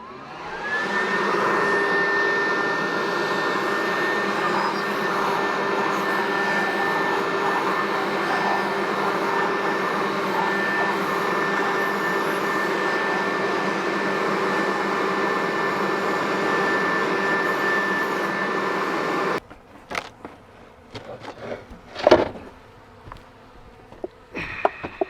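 Greenworks 40V cordless leaf blower spinning up with a rising whine and then running steadily, clearing the remaining bees out of honey supers. It cuts off suddenly about 19 seconds in, followed by a few knocks and clatters, the loudest about 22 seconds in.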